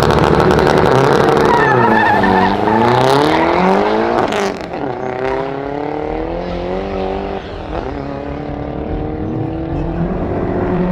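A Honda Civic and a Nissan Lucino, both four-cylinder cars, accelerating hard side by side in a drag race. The engine notes climb through the revs, drop at upshifts about two and about four seconds in, and climb again. The sound gets quieter after about four and a half seconds as the cars pull away.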